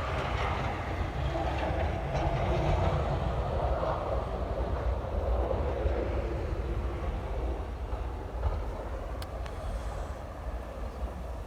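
A vehicle rumbling past, swelling a few seconds in and fading away near the end.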